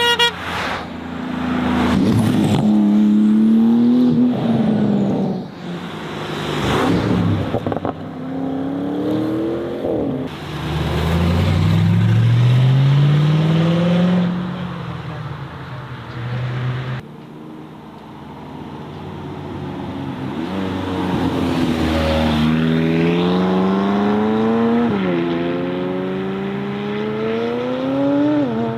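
Performance cars accelerating hard one after another, their engines revving up and dropping sharply in pitch at each upshift, with a longer run through the gears near the end.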